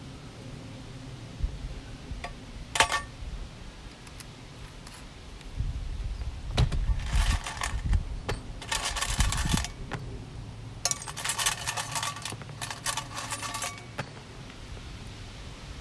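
Small metal pieces jingling and clinking, as when hardware is rummaged or shaken, in two spells of several seconds each, after a single sharp click.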